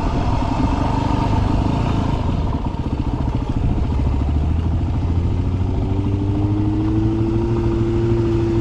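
Dirt bike engine running at low trail speed, with some clatter from the rough track. It eases off briefly about three seconds in, then the revs rise slightly past the halfway point.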